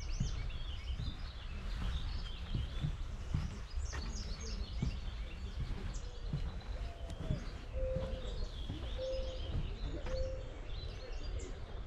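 Several songbirds singing and calling at once, with a busy mix of high chirps and trills. About two-thirds of the way in, three short low level notes sound about a second apart. A steady low rumble runs underneath.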